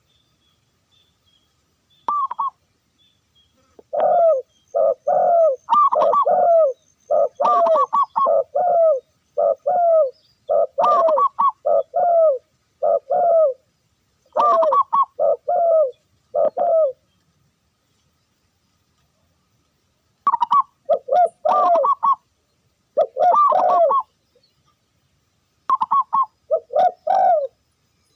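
Dove cooing: runs of short, quick coos repeated in phrases, with a pause of a few seconds midway.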